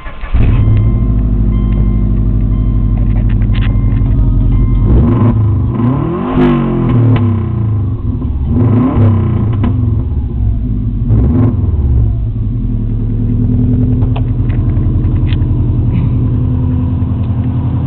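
Turbocharged flat-four engine of a 2005 Subaru Legacy GT, run with the resonator deleted and no mufflers, idling through the open exhaust and blipped up and back down three times near the middle before settling back to idle.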